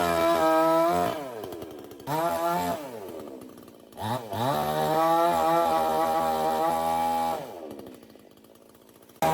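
Chainsaw engine revved up in bursts, its pitch dropping away each time the throttle is let off: a short burst at the start, another near two seconds, a longer hold of about three seconds from about four seconds in, and a fresh rev at the very end.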